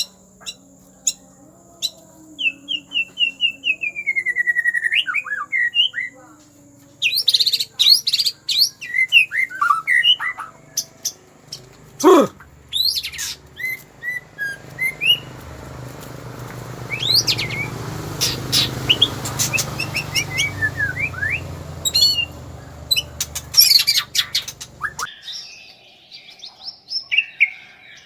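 White-rumped shama (murai batu) singing: quick, varied whistled phrases with sliding notes and sharp clicking notes. Through the middle of the song a low rumbling noise runs underneath and stops suddenly a few seconds before the end.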